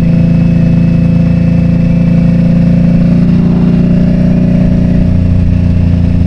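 Motorcycle engine running at a steady speed, its tone shifting slightly about three seconds in.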